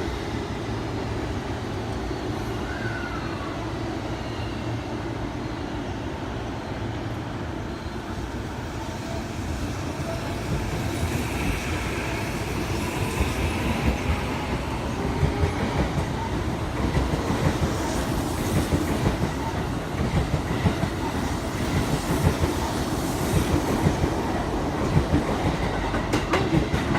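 Tokyo Metro 15000 series electric commuter train pulling out of the station. Its wheels clack over the rail joints, growing louder from about ten seconds in as it gathers speed.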